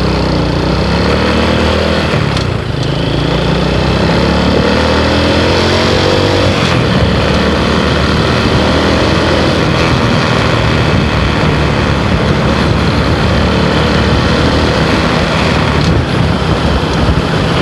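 Motorcycle engine pulling away and accelerating through the gears, its pitch climbing and dropping back at each shift about two and a half and six and a half seconds in, then settling into a steady cruising roar.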